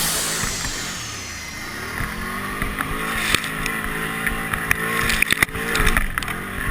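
Can-Am XMR ATV engine running, its revs rising and falling as it is ridden, with a few sharp knocks in the second half.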